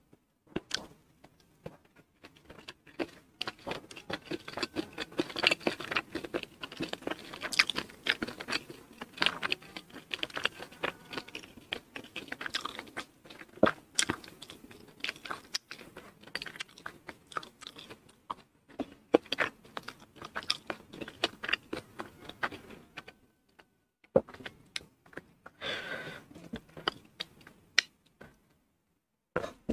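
Chewing and crunching a mouthful of rice with crisp fried anchovies and tempe orek, eaten by hand. The crunching is busiest for the first two-thirds and thins out to scattered clicks near the end.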